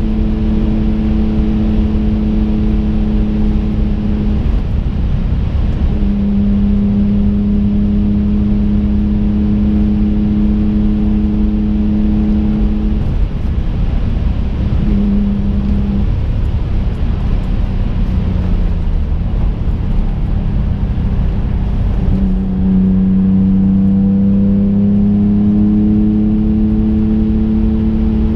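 Engine of a twin-turbocharged 2005 Infiniti G35 coupe, a 3.5-litre V6, running at a steady cruise, heard from inside the car over constant road rumble. The engine note drops away briefly a few times, the longest gap lasting several seconds in the middle, then comes back and rises slowly near the end.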